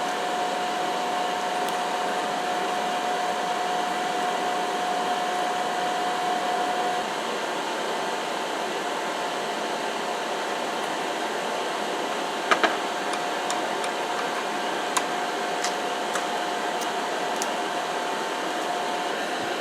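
A forge running with a steady rush of air and a faint held tone, heating a leaf-spring steel knife blade for normalizing. A couple of sharp metallic clicks come about two-thirds of the way through.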